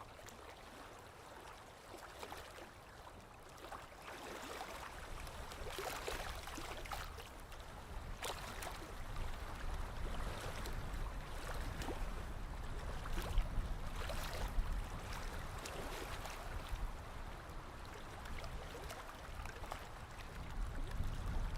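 Small lake waves lapping against the shore in irregular little splashes, getting louder after a few seconds, with a low rumble building in the second half.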